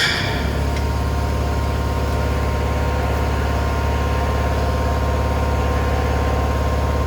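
Workshop air compressor running: a loud, steady motor hum with a fast even pulse.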